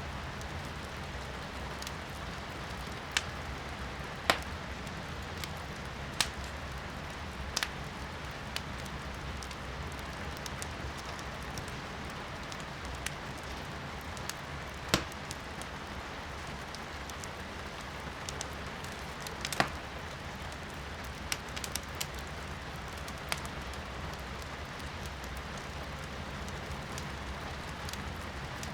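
Firewood burning in a fireplace, crackling with sharp irregular pops every second or few, over a steady hiss of rain heard from indoors.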